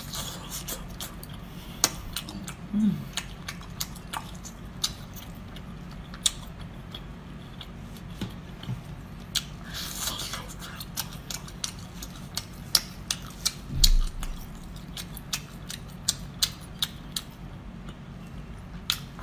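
Close-miked chewing of spicy baby octopus: many sharp, wet mouth clicks and smacks over a steady low hum, with a breathy puff of air about ten seconds in and a low thump near fourteen seconds.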